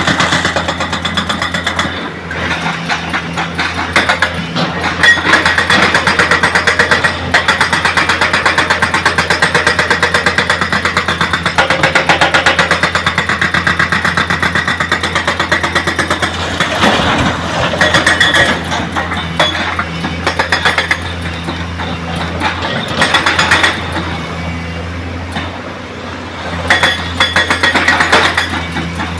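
Heavy diesel engine of construction machinery running steadily with a fast firing beat, its sound swelling and easing several times as the load comes and goes.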